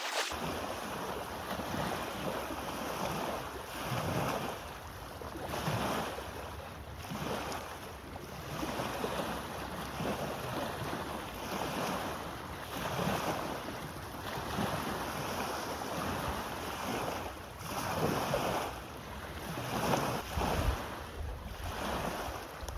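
Lake water sloshing and splashing in swells every couple of seconds, with wind buffeting the microphone.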